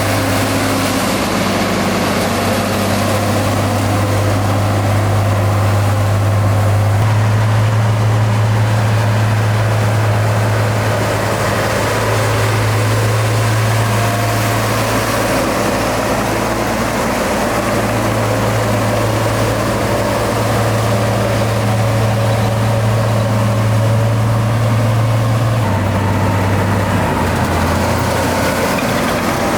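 Heavy diesel engine of road-building machinery running steadily under load, its pitch stepping up and down several times.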